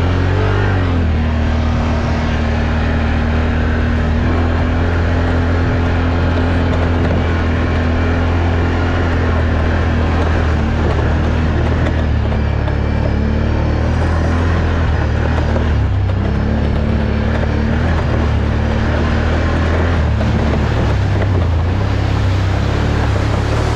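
Off-road vehicle engine running steadily under way, a constant low drone with small shifts in pitch. It eases briefly about fourteen seconds in, then picks back up.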